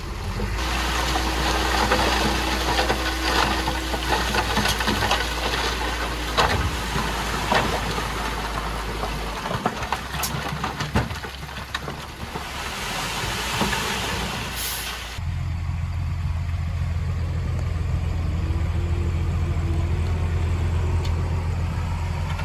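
Bulldozer's diesel engine working, with a broad rushing noise and scattered knocks. About fifteen seconds in, the sound changes abruptly to a steadier, lower engine drone.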